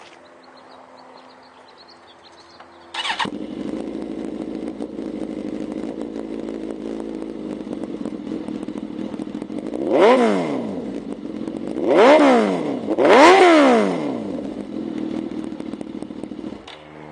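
2006 Suzuki GSX-R1000's fuel-injected inline-four, breathing through an M4 shorty exhaust, starts about three seconds in and settles to a steady idle. It is revved three times in quick succession, the pitch rising and falling each time, then idles again and is switched off shortly before the end.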